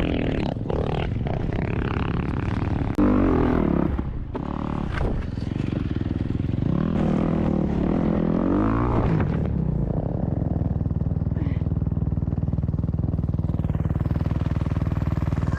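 Dirt bike engines revving, rising and falling in pitch, with a sharp knock about three seconds in. From about ten seconds on, a steadier low engine rumble.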